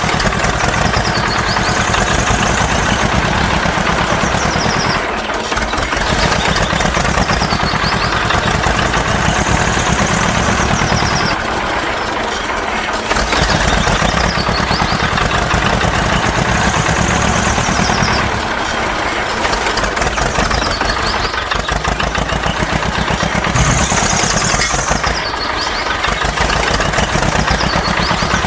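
Tractor-style engine running steadily, with a pattern that repeats about every three and a half seconds.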